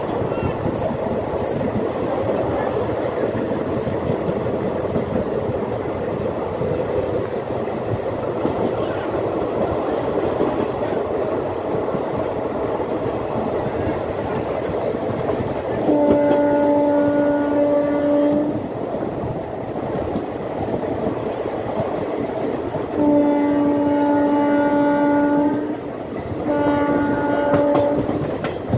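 Janmabhoomi Express passenger train running at speed, heard from a coach doorway: a steady rumble and clatter of wheels on the track. Its locomotive horn sounds three times, two long blasts of about two and a half seconds and a shorter one near the end, as the train approaches a level crossing at the station.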